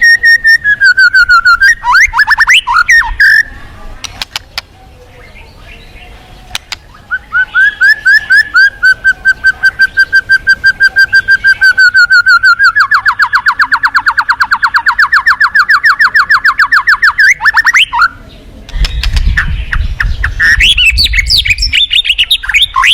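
White-rumped shama (murai batu) singing in long, rapid trills of repeated notes. After a short pause the song runs a long steady trill that drops lower about halfway through, then breaks into mixed chirps over a low rumble near the end.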